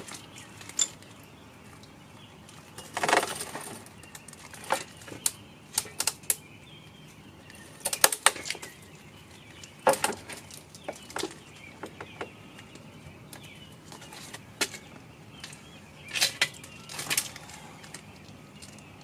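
Irregular handling noises: a dozen or so sharp clicks, clinks and knocks with a few short scraping or rustling sounds, as tools and engine parts are picked up and moved.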